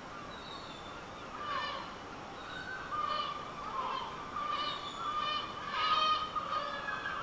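Birds calling in a series of short, overlapping calls, some gliding in pitch, growing louder and more frequent partway through.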